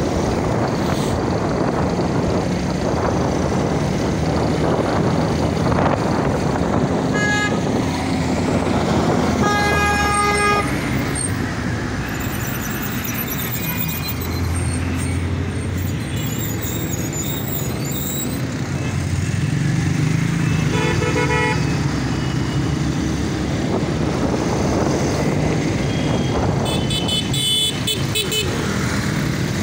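Road traffic heard from a moving motorcycle: steady engine and road noise, with vehicle horns honking about four times.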